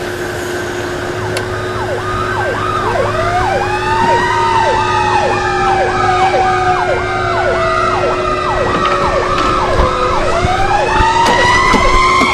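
Emergency vehicle sirens: a fast yelp sweeping down in pitch about two to three times a second over a slower wail that falls and then rises again about ten seconds in, with a steady low tone underneath.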